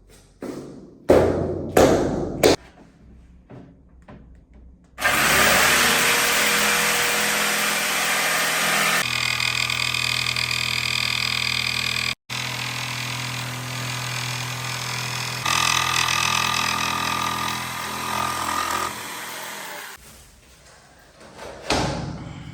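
A few sharp knocks, then a power tool spins up about five seconds in and runs steadily for about fifteen seconds. Its tone shifts a couple of times and it cuts out for a moment near the middle.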